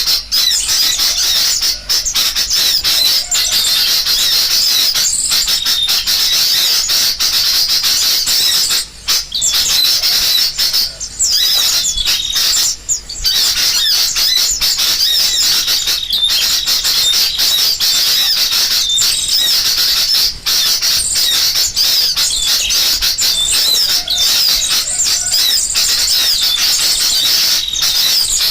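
Bird-lure recording of sooty-headed bulbuls calling noisily, mixed with the chatter of small songbirds: a dense, continuous chorus of high chirps and warbles. It is a trapping lure, meant to draw wild birds in.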